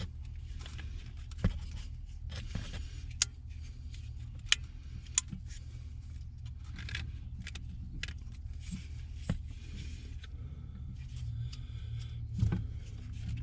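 Scattered sharp clicks, taps and short scrapes of hands working the gas pedal assembly and its clip loose under a truck's dash, over a steady low hum.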